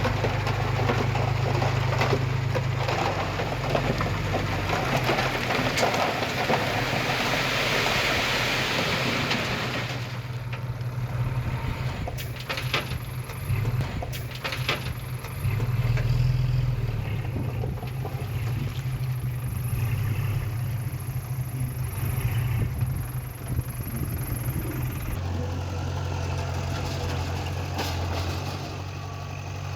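Diesel engine of heavy earthmoving machinery running with a steady low hum. For the first ten seconds a dense, rushing and rattling noise rides over it and stops abruptly; a few sharp knocks follow a few seconds later.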